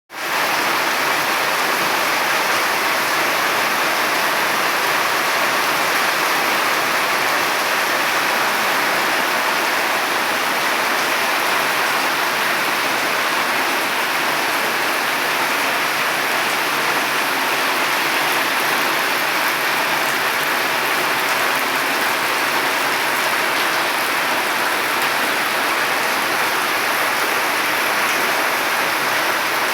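Steady rain falling: an even, unbroken hiss that fades in at the very start and then holds without a break.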